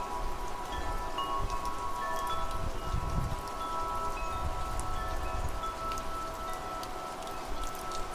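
Wind chimes ringing, many overlapping metal tones sounding and fading, over steady rain. A low rumble swells about three seconds in.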